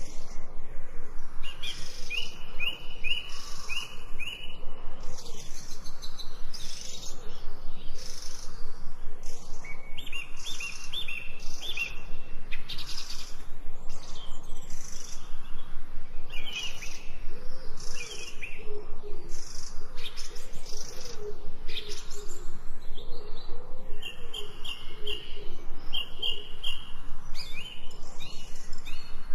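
Several birds singing: short, quickly repeated chirping phrases recur throughout, and a lower wavering call joins in past the middle, over a steady background hiss.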